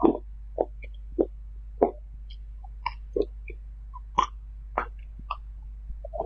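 Close-miked eating sounds: a person chewing and smacking food, short wet mouth noises about one to two a second, over a steady low hum.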